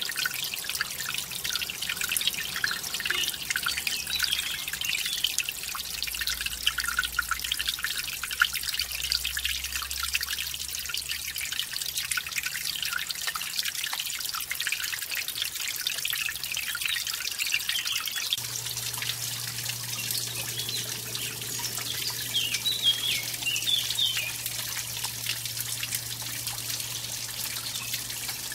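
Small mountain stream trickling and splashing over a little waterfall, a steady rush of water thick with small drips and splashes.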